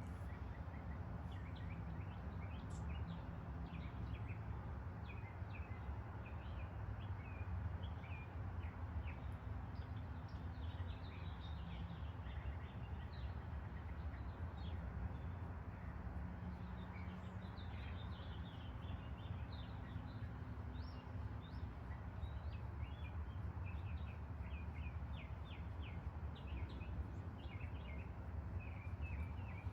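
Small birds chirping and tweeting in quick, scattered calls throughout, over a steady low outdoor rumble.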